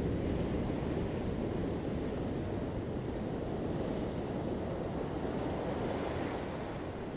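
Ocean surf: a steady, low rush of breaking waves, easing slightly near the end.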